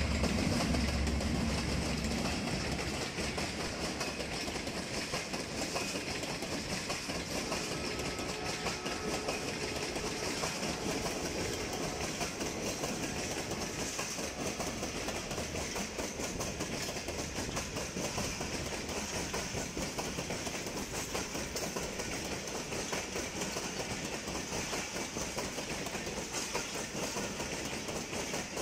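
Passenger train passing close by: the ZCU-30 diesel locomotive's low engine rumble fades over the first few seconds, then the coaches roll past with a steady wheel rumble and clickety-clack.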